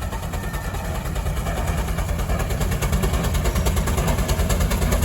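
An engine running with a rapid, even beat, growing steadily louder.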